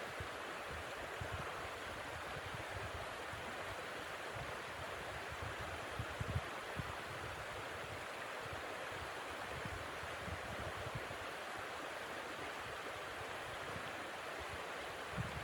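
Blizzard wind blowing steadily in a dense hiss, with irregular low buffeting thumps on the microphone, strongest about six seconds in.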